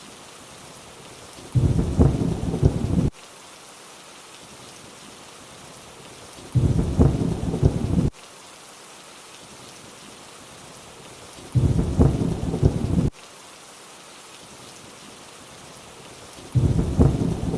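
Steady rainfall hiss with a short low rumble of thunder every five seconds, four times, each lasting about a second and a half and starting and stopping abruptly, like a looped thunder sample.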